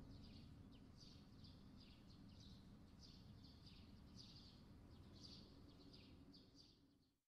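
Faint ambience of small birds chirping, about two short chirps a second, over a low steady hum; it fades out just before the end.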